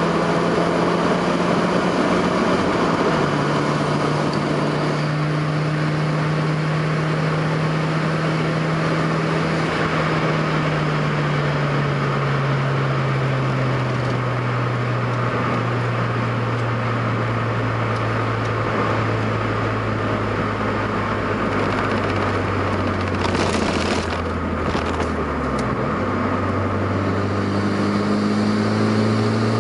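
Nissan 200SX S13's tuned, turbocharged CA18DET inline-four running, heard from inside the cabin over steady road and tyre noise. The engine note slowly falls as the car slows. After a brief dip and a few sharp clicks, the note climbs again near the end as the car speeds back up.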